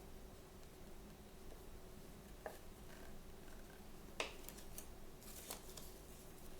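Faint handling of small toy packaging: a few light clicks and taps, the sharpest about four seconds in, with brief crackling between them.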